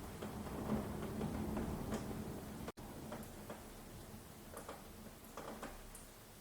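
Rain falling, with many separate drops ticking and dripping close by. A little under halfway through, the sound cuts out for an instant and returns quieter, the single drips standing out more clearly.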